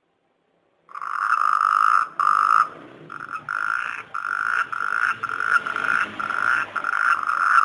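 Frog-croaking ringtone sound effect: a buzzy croak repeated in quick bursts with short gaps, starting about a second in.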